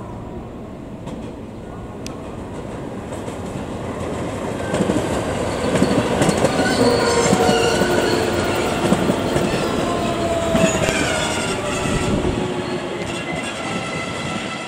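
Electric commuter train rolling through a station's switches, its wheels clattering loudly over the points and rail joints, with several high whining tones that slowly fall in pitch. The sound builds from about four seconds in and is loudest in the middle.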